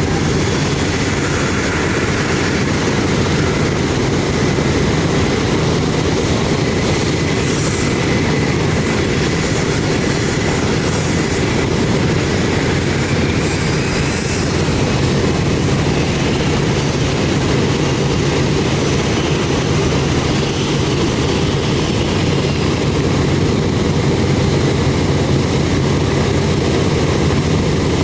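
B-17 Flying Fortress's Wright R-1820 Cyclone radial engines running steadily, a loud, even rumble.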